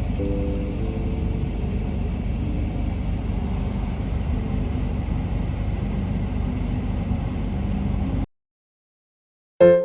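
Steady low rumbling noise with faint background music over it; it cuts off suddenly about eight seconds in, and after a second and a half of silence a piano note sounds at the very end.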